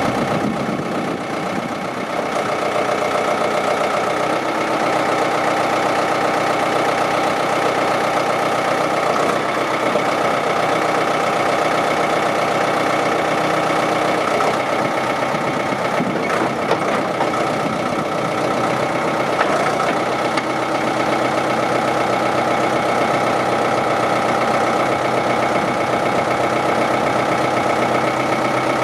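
A Ford 555C backhoe's diesel engine runs steadily, near idle. Its note shifts briefly a couple of times.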